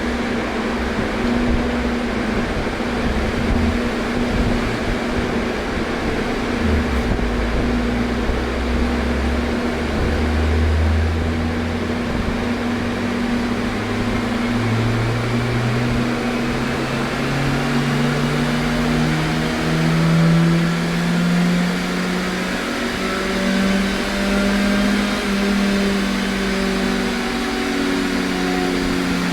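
Car engine running on a chassis dyno during a power run: its note climbs steadily from about a quarter of the way in to about two-thirds, then holds high, over a constant steady hum.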